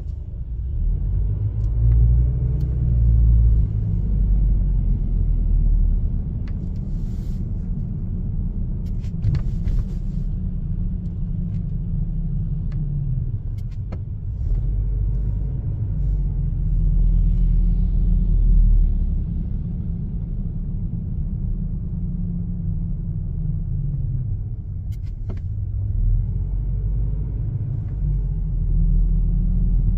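A car driving: a steady low road and engine rumble, with the engine note rising and falling a few times as it speeds up and slows down. A few brief clicks sound here and there.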